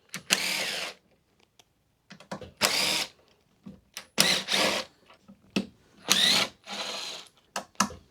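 Cordless drill-driver fitted with a 3 mm hex bit, run in about five short bursts of under a second each as it backs out 3 mm hex screws.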